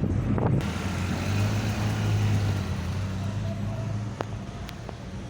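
Taxi's engine running with a steady low hum and road noise, heard from inside the car, easing slightly quieter near the end. A voice is briefly heard at the very start.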